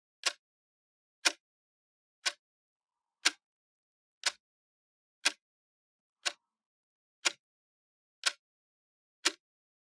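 Clock ticking, one short sharp tick a second with silence in between: ten ticks in all.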